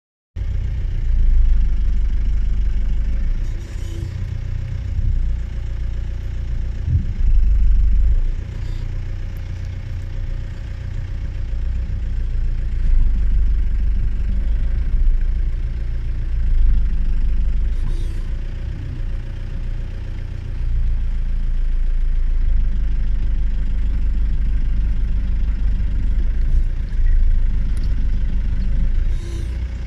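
Vehicle engine idling with a steady low rumble, with a few faint clicks.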